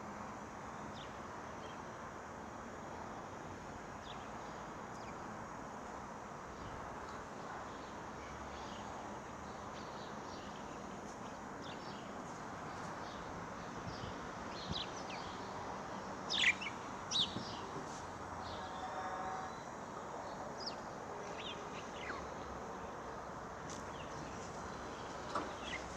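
Budgerigars chirping in short, scattered high calls over a steady background hiss, with a brief burst of louder chirps past the middle and a quick warbling run just after.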